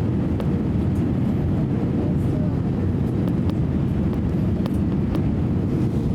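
Steady low drone inside an airliner cabin, jet engine and airflow noise during the descent, with a few faint clicks.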